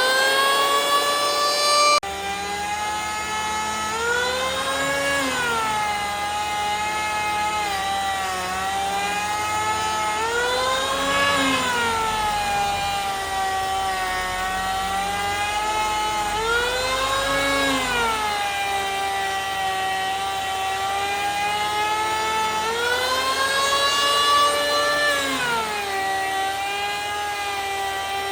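An electric power tool's motor running on the wood, its pitch sagging and recovering about every six seconds as it takes and releases load.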